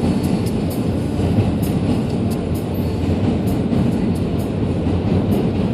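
New York City subway train running along the track, a loud steady rumble with quick repeated clicks of the wheels over the rails.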